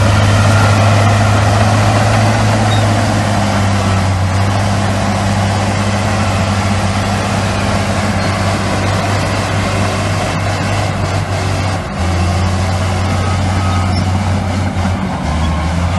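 Heavy diesel engine of earth-moving machinery running steadily at an even pitch, with a brief dip about twelve seconds in.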